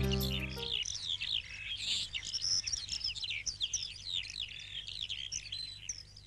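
Several birds chirping together, a busy run of short, high chirps, after a soft background music note fades out in the first second.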